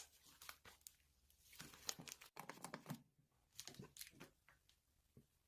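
Faint, irregular crinkling and rustling, a scatter of short crackles that thins out and stops near the end.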